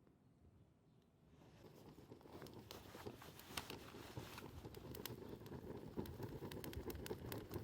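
Faint crackling and popping from campfire cooking that fades in about a second and a half in and grows steadily louder, with many sharp pops.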